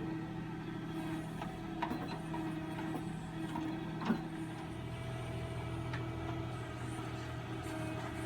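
Tractor engine running steadily under work, its note dropping a little about halfway through, with two sharp knocks, the louder one about four seconds in.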